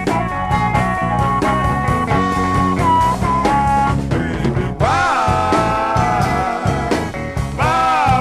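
Electric blues band playing an instrumental break: drums keeping a steady beat under bass and guitar, with a lead line of long held, bent notes.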